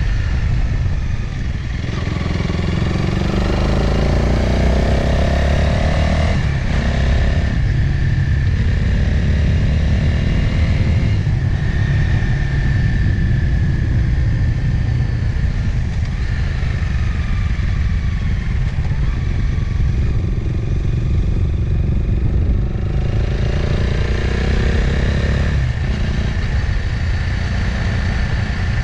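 Motorcycle engine running under way, heard from the bike itself over steady road and wind noise. Its pitch rises for a few seconds at a time, with brief breaks about six seconds in and again near the end, like gear changes.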